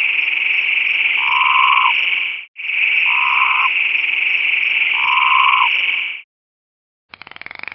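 Frogs calling: a dense, steady high-pitched chorus with a louder, lower croak about every two seconds. The chorus stops about six seconds in, and after a second of silence a different animal sound, a rapid rough pulsing, begins near the end.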